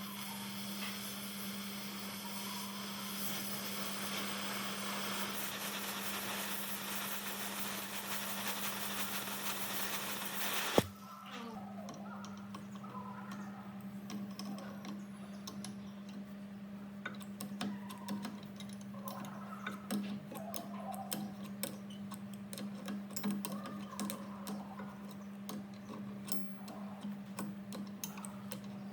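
Workshop restoration sounds: a steady hiss that cuts off with a single sharp clack about eleven seconds in, followed by scattered light clicks and taps of hand work on metal parts, over a steady low hum.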